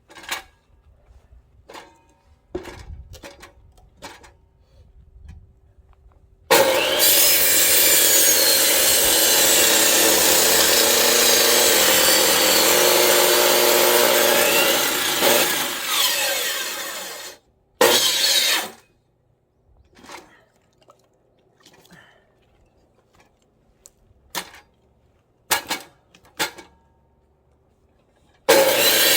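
Electric saw cutting through firewood logs: a loud steady run of about eleven seconds, a brief burst a little later, and the saw starting again near the end. Scattered knocks of wood pieces being handled and set down come before and between the cuts.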